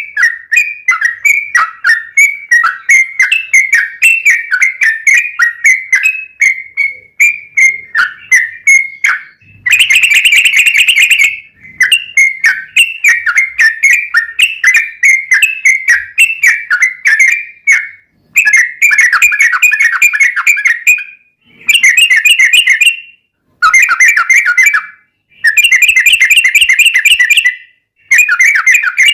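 Yellow-vented bulbul (trucukan) singing in long, rapid runs of chattering notes. The song is continuous for about the first nine seconds, then comes in dense bursts a second or two long with short pauses between them.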